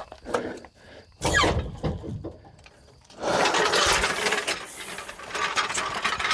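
Tool work on the truck: a few knocks and a short falling squeak, then from about three seconds in a rapid, dense ratcheting clatter as fasteners are run in.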